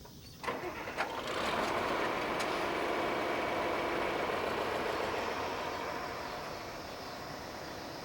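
A tractor's motor starting up and running steadily as it tows a stuck toy tractor out of the mud. A couple of clicks come first, and the motor sound eases off near the end.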